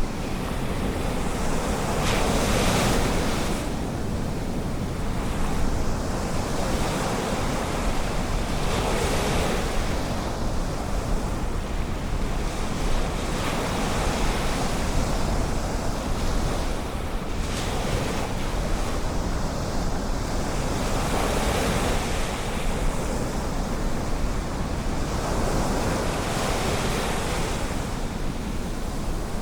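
Ocean surf: waves breaking and washing ashore, the rush swelling and easing every few seconds. Wind rumbles on the microphone underneath.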